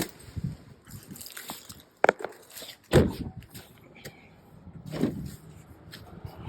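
A few sudden knocks and thumps, the loudest a deep thump about three seconds in, with quieter handling noise between them.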